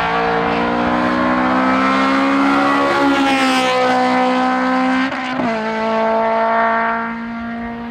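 Competition car's engine at full throttle on a hillclimb run, pitch climbing under acceleration, with a gear change about five seconds in, then fading as the car pulls away.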